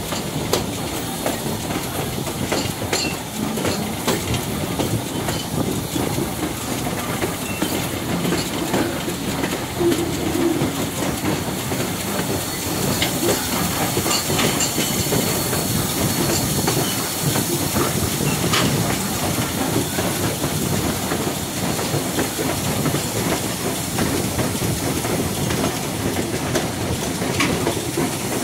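Steam-hauled passenger train running along the track: a steady rumble of the cars rolling, with scattered clicks of the wheels over rail joints.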